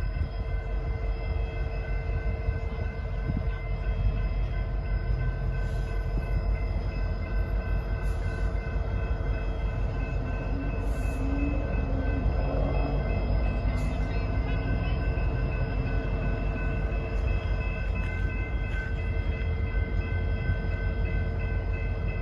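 Train at close range, with a heavy low rumble and a steady set of held tones throughout, plus a few brief clicks.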